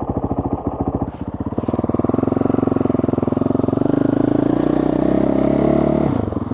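Dirt bike engine running as the bike sets off, its firing pulses even at first, the note climbing after a couple of seconds and dropping briefly near the end.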